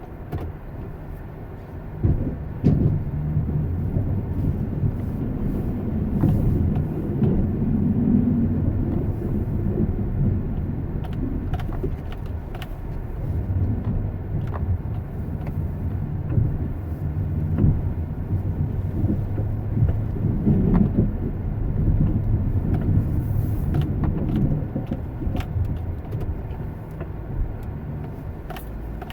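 An engine running with a steady low rumble, with scattered light knocks and clicks over it.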